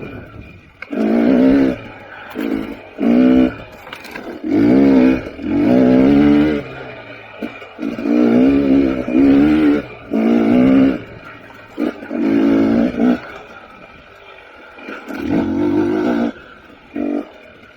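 KTM 300 XC TPI's single-cylinder two-stroke engine revving in repeated short bursts of throttle, the pitch climbing in each burst and dropping away between them as the rider rolls on and off on singletrack.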